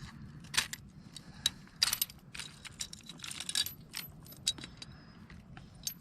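Short, irregular metallic jingles and clicks of a Rapala lure's hooks and hardware rattling while a freshly landed bass is unhooked, over a steady low background rumble.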